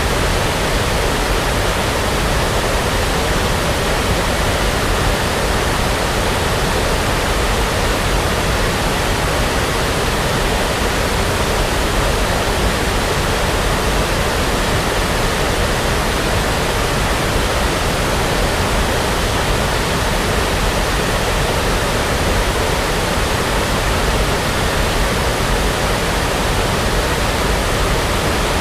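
Steady, unchanging brown noise: a continuous even rushing hiss with no events in it, like a distant waterfall.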